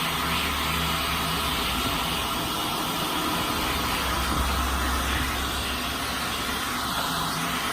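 Vacuum cleaner running steadily with a low hum, its nozzle being worked over a cat's fur.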